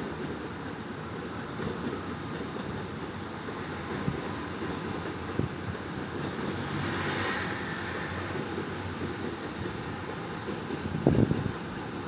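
Steady low rumble of city ambience heard from an apartment. A passing swell of noise rises and fades about halfway through, and a few dull thumps come near the end.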